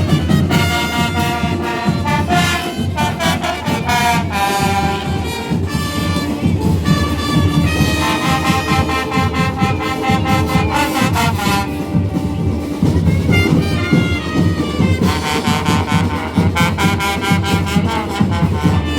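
Marching band playing, with brass instruments carrying the tune over a busy low accompaniment.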